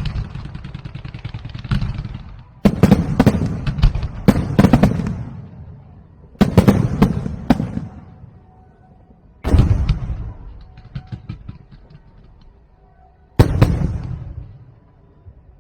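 Aerial fireworks: four loud shell bursts a few seconds apart, each followed by a dense rattle of crackling that fades away over a second or two.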